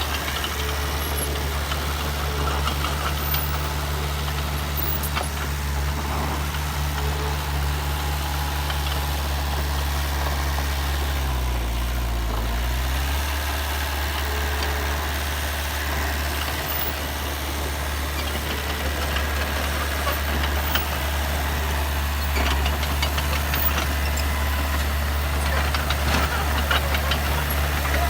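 Diesel engine of a heavy earthmoving machine running steadily. Its pitch dips briefly and recovers about halfway through, and light clatter rises toward the end.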